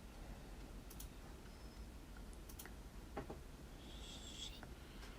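Faint, scattered clicks and light taps from handling small matchstick pieces and a hot glue gun during gluing, with a brief soft hiss about four seconds in.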